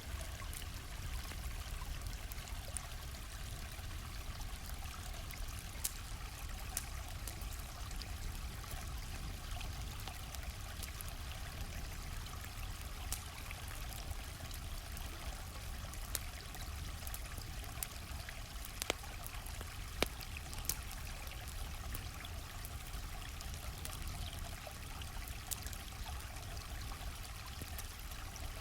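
Stream flowing with a steady trickling rush, punctuated by the irregular sharp pops and crackles of a campfire. The two loudest pops come close together about two-thirds of the way through.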